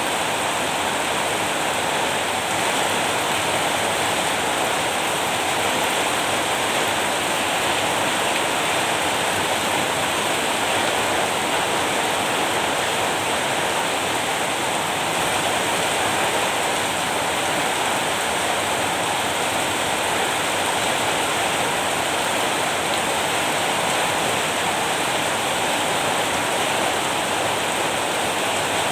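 Steady, even rain, a constant rushing hiss with no distinct drops or thunder.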